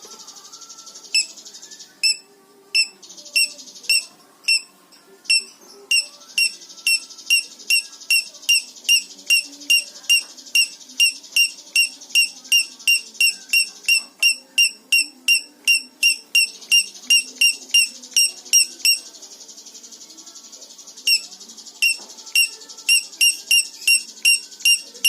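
A bird repeating a short, sharp whistled note about twice a second over a steady high hiss, pausing for about two seconds near the end before starting again.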